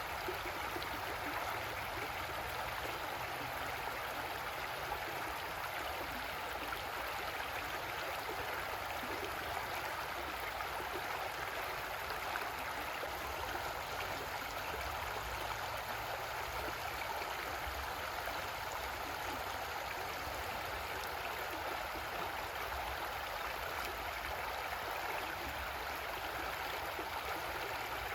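Creek water flowing and gurgling over rocks in a steady, unbroken rush.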